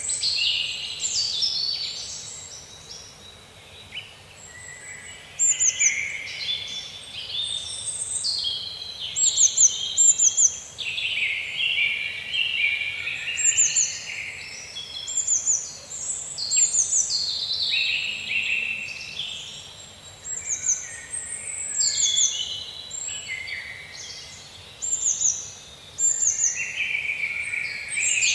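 Tropical birds singing and calling together in overlapping phrases, with chirping and warbling throughout. Quick, high notes slide downward in groups of two or three, repeated every few seconds.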